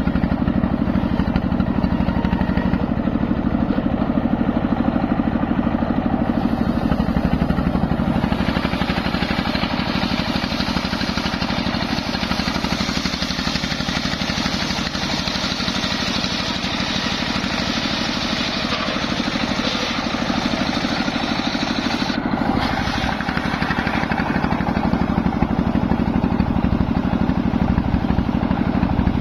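Homemade circular sawmill running with a steady drone. From about eight seconds in, the blade cuts through waru wood with a loud hiss; the hiss breaks off briefly about 22 seconds in and then resumes.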